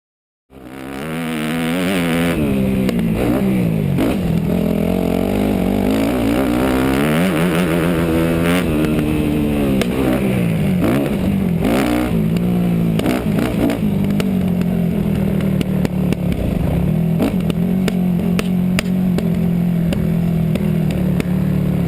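Four-stroke 250 cc motocross bike engine revving up and falling back again and again as it is ridden, heard from onboard, with scattered sharp knocks and clatter. The engine holds a steadier pitch for the last third.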